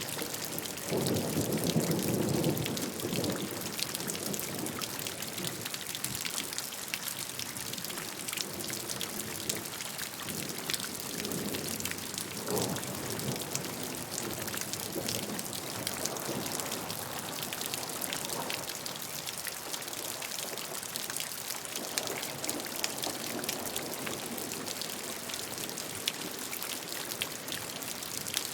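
Steady rain falling, a dense patter of drops on a surface, with low rumbling swells coming and going, the strongest a second or two in.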